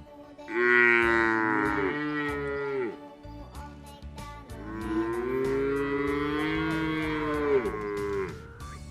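Cow mooing twice: two long calls, the second starting about four and a half seconds in and lasting longer.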